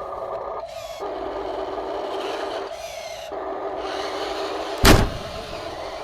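Small electric gear motors of an RC construction machine whining steadily, stopping twice for a moment and starting again, with one loud thump near the end.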